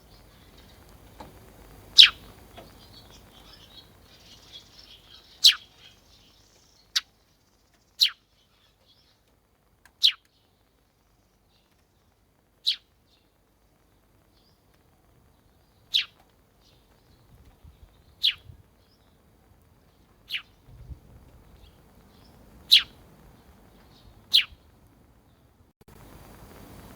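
Sparrow chirping: about eleven short, sharp single chirps, each a brief high note, spaced irregularly one to four seconds apart.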